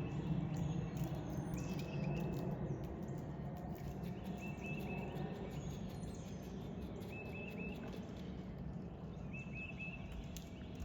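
Outdoor ambience: short high chirps in quick groups of three or four, repeating every two or three seconds, over a steady low hum and scattered faint clicks.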